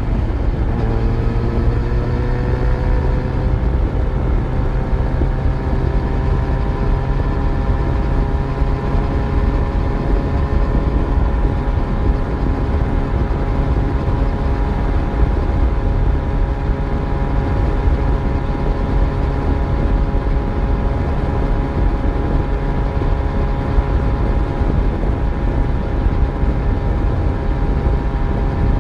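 Yamaha FZ1's inline-four engine under way on the road, its note rising over the first few seconds as it pulls, then holding steady at cruising speed over a low rumble.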